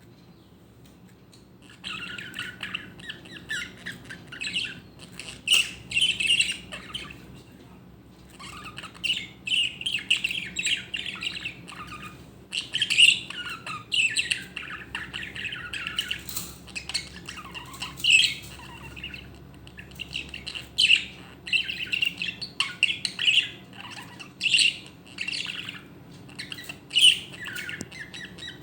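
Budgerigar chattering and squawking in quick, harsh bursts, starting about two seconds in, with a short pause about a quarter of the way through.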